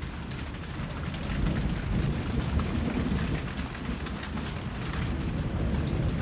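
Steady rain falling, a dense hiss of drops with a low rumble underneath that swells about a second and a half in.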